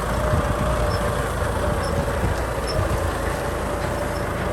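Kubota M6040 tractor's diesel engine running steadily, a constant low rumble with a steady hum.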